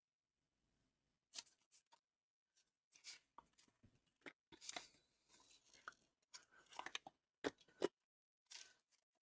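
Folded paper squares being handled and pressed together: scattered paper rustles and light taps, with two sharper clicks close together near the end.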